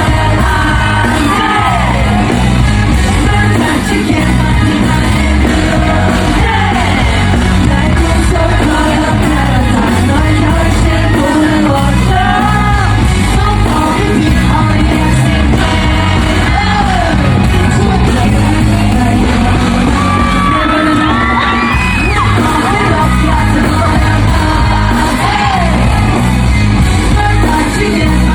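Loud pop song with a singing voice over a heavy bass beat, with yells and whoops from a crowd in a large hall.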